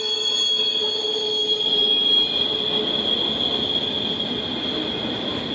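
Railcar wheels squealing as a train rolls past: a steady high-pitched squeal over the rumble of the cars, with a lower squeal tone that fades out early.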